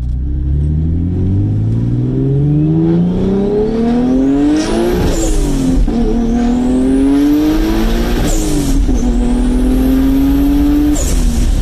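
1997 Mitsubishi 3000GT VR-4's 3.0-litre V6 with a single turbo, accelerating hard through the gears and heard from inside the car. The engine note climbs steadily and drops at upshifts about five seconds in, around eight and a half seconds and near the end. A high whine rises with each pull, and there is a short hiss at each shift.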